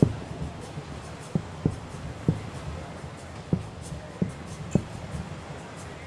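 Fireworks shells bursting: a run of dull, low booms, about eight in six seconds at irregular intervals, over a steady low rumble.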